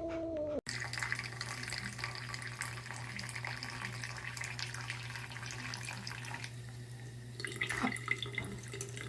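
A cat's drawn-out yowl ends abruptly a fraction of a second in, followed by water running steadily from a tap over a low hum.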